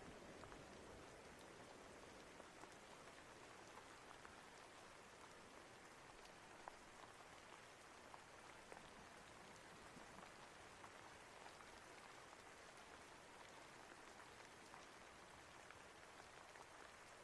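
Faint steady rain, with scattered small raindrop ticks through it.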